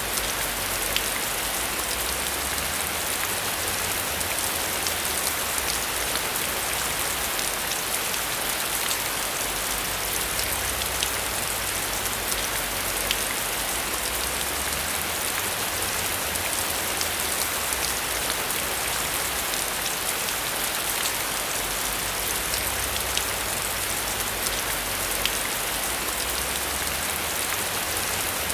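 Heavy rain falling steadily on a metal roof: a dense, even hiss with scattered sharper drop hits.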